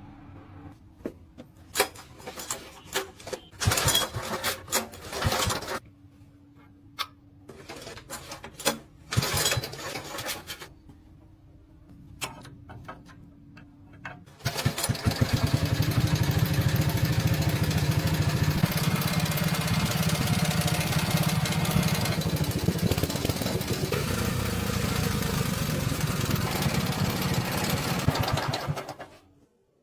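Repaired 1988 motorcycle engine being started: for about half the time it gives short irregular sputters and bursts, then it catches about halfway through and runs steadily, and the sound stops abruptly near the end.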